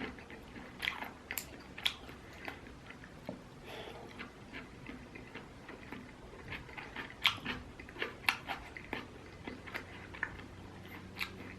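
A person chewing and eating a mouthful of food, with many irregular short wet smacks and clicks.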